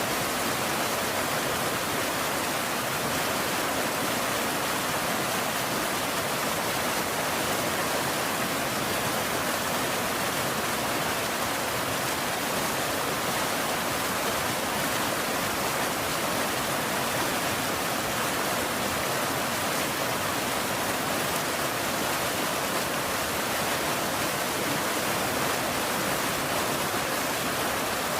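Rain falling steadily: an even, unbroken hiss with no separate drops or thunder claps standing out.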